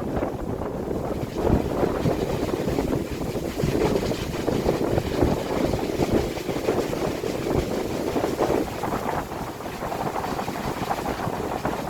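Strong wind gusting, its noise swelling and easing irregularly, with wind buffeting the microphone.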